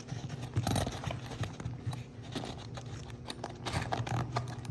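Rummaging in a tool bag pocket: small hardware and tape rolls being handled, making a run of light clicks, rattles and rustles over a steady low hum.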